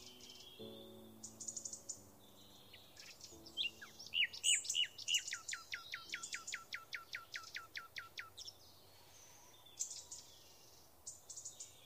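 Birds calling: one bird repeats quick downward-sweeping whistled notes, about four a second, while short high trills come from other birds. A faint low pitched sound sits underneath early on.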